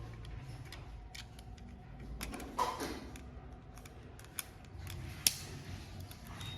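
Scattered small plastic clicks and taps as an opened computer mouse is handled and worked on, with one sharper click about five seconds in.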